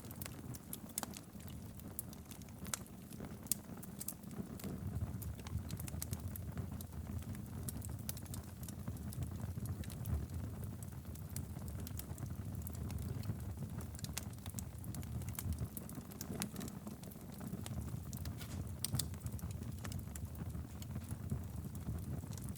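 Wood fire burning steadily in a fireplace, a low rumble of flame under frequent sharp, irregular crackles and pops.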